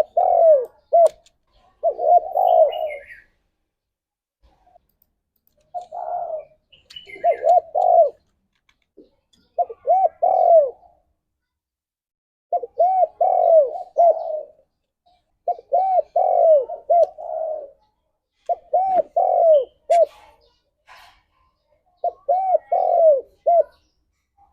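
Spotted dove cooing: about nine short phrases, each a few quick rising-and-falling coos run together, with brief pauses between them.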